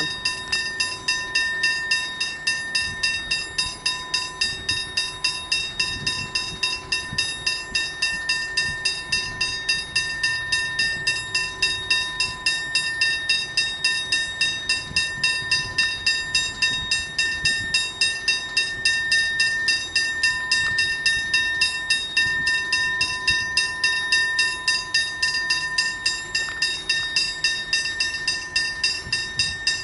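Railway level crossing bells ringing in a rapid, even rhythm, about two to three strikes a second. These are the crossing's original mechanical bells, sounding while the crossing is activated for a train.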